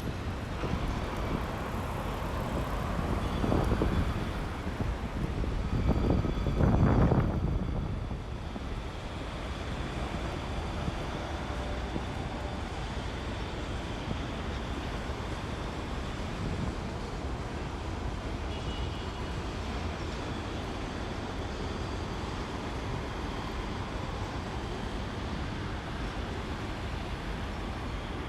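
Strong wind buffeting the phone's microphone, with two loud gusts in the first eight seconds, then a steadier rumble.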